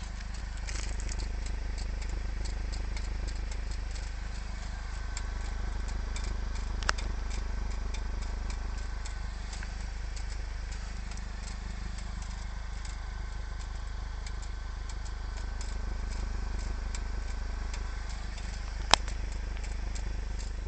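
Hot muffler of a VW Golf 6 GTI exhaust cracking as it cools after a hard drive: scattered sharp clicks over a steady low hum, with one louder crack about seven seconds in and the loudest near the end.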